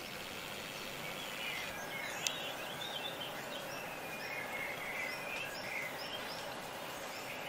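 Small birds chirping and singing in short repeated notes over a steady background hiss, with one brief click about two seconds in.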